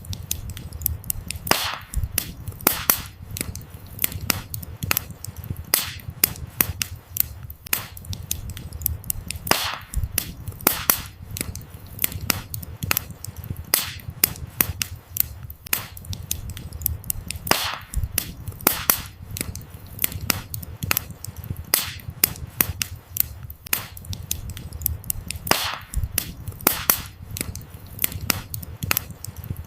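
Campfire of burning firewood crackling and popping, with a low steady flame rumble under a constant scatter of sharp snaps. The same set of louder pops comes back about every eight seconds, a short recording looped.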